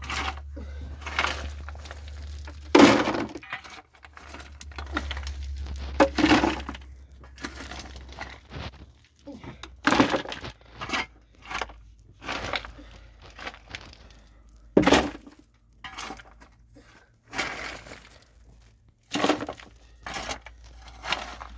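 An irregular series of sharp cracks and knocks, roughly one a second, some louder than others, the loudest about three seconds in. A faint low hum runs under the first half.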